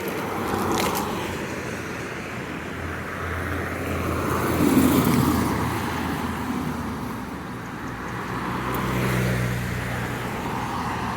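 Road traffic on a busy street: cars passing one after another, engine and tyre noise swelling and fading about three times, loudest about halfway through, with a low engine drone in the last few seconds.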